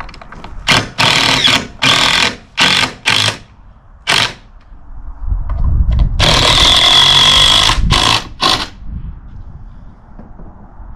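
A power drill running in a string of short bursts, then one longer run of about two and a half seconds with a steady high whine, and a last short burst.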